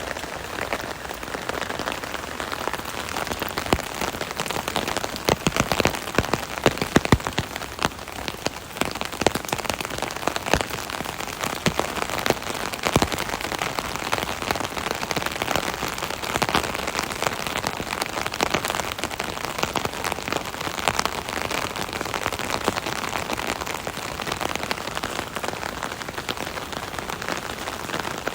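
Rain falling on an umbrella overhead: a steady patter of drops hitting the canopy, with many individual sharp taps, heavier for a few seconds about four to eight seconds in.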